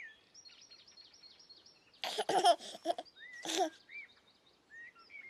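Bursts of high-pitched, voice-like laughter about two seconds in and again about a second later, over steady small birdsong chirps.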